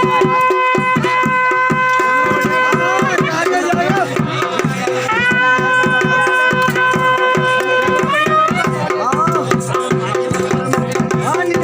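Traditional Uttarakhandi Sarankar dance music: drums beating a fast, dense rhythm, while a wind instrument holds long notes over a steady drone, sliding up into a new held note near the start and again about five seconds in.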